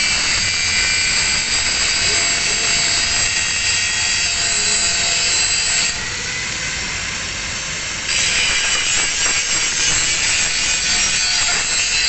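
Angle grinder grinding a single bevel on a steel plate edge. The disc is eased off the work about six seconds in, running on more quietly for two seconds, then pressed back into the metal.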